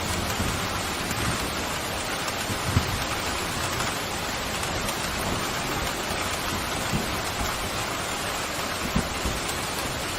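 Steady pouring rain, an even hiss, broken by a few brief louder thuds about three seconds in and again near the end.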